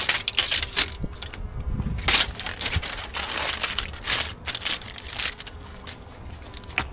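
Sealing tape being peeled off the seams of beehive boxes and crumpled, a run of irregular crackling, tearing noises that thin out towards the end.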